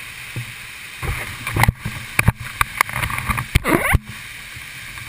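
Steady rush of a waterfall, with a run of irregular low thumps and knocks of wind buffeting the microphone from about one to four seconds in.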